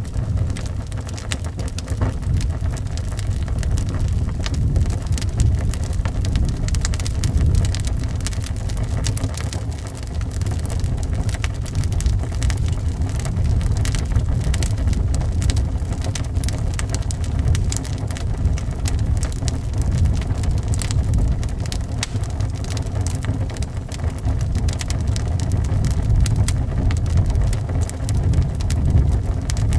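Wood fire crackling with frequent sharp pops over a steady, deep rumble of howling wind that swells and eases every few seconds.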